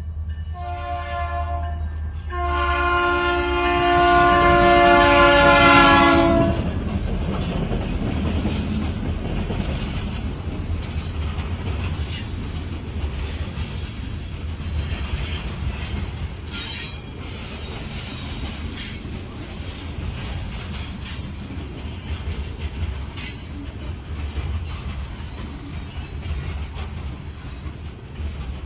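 Diesel freight locomotive's chord air horn ending the grade-crossing signal with a long, a short and a final long blast, the last one loudest. The train then rolls past with a steady low rumble and wheels clicking over the rail joints.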